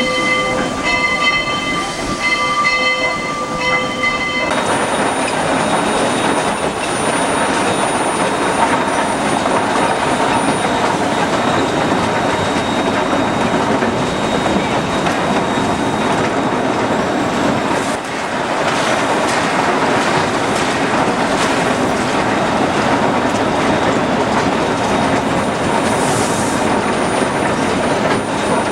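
Passenger train rolling along the track behind Heisler #91: for about the first four seconds a chord of steady high ringing tones sounds over it with short breaks, then it gives way abruptly to a loud, steady rumble and clatter of the wheels on the rails.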